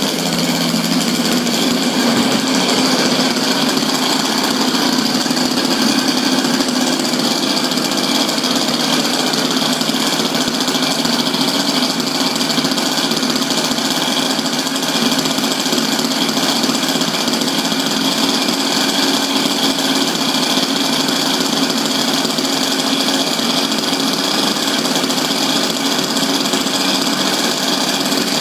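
Small single-cylinder gasoline engine of an RC quadcopter running steadily at high speed, its pitch stepping up slightly about two seconds in.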